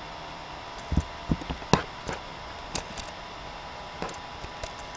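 Scattered, irregular clicks and a few soft low knocks over a steady faint hum.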